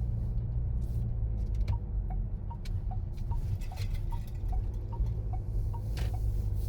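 Steady car engine and road rumble inside the cabin. A turn-signal indicator ticks in an alternating tick-tock, about two and a half clicks a second, starting a couple of seconds in, with a sharper click near the end.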